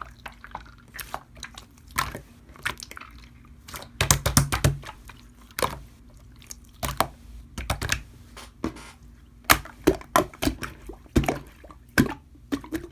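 Slime being squished and poked by hand, giving irregular wet clicks and pops.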